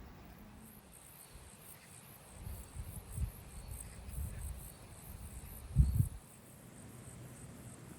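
Insects chirping in a steady high pulse, with a few low, dull thumps of handling, the loudest about six seconds in.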